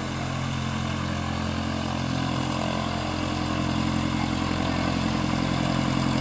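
Light propeller aircraft's piston engine running steadily at low power, a low droning hum that slowly grows louder.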